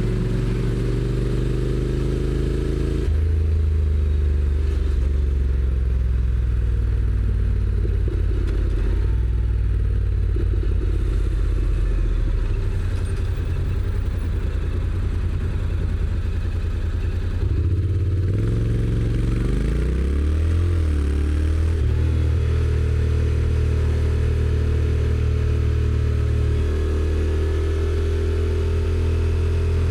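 Honda NC750X DCT motorcycle running on its stock exhaust as it is ridden. Its engine note steps in pitch several times, dips about 18 seconds in and then rises again.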